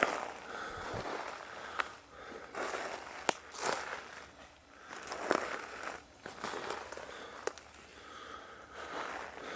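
Footsteps of people walking along a forest trail, irregular crunching on the ground with a few sharp cracks.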